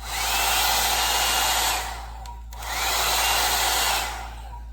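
L'ANGE HAIR 2-in-1 titanium blow dryer brush blowing hot air in two blasts of about two seconds each, with a short pause between. A faint motor whine rises as each blast starts.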